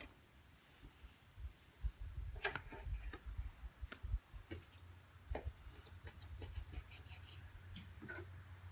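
A knife cutting up pork roast on a cutting board: scattered knocks and taps of the blade and meat against the board, over a low steady hum.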